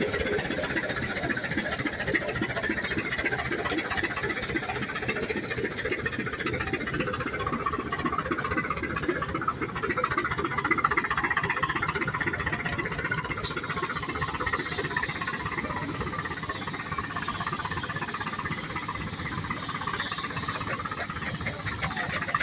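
Tractor engine running steadily under load, its firing pulses coming fast and even. About halfway through, a high hiss joins it.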